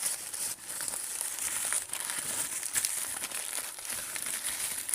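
Paper wrapping crinkling and crackling steadily as it is unwound by hand from an ornament.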